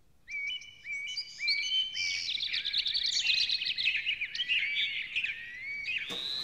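Birds chirping and singing: many short, high chirps and trills that overlap.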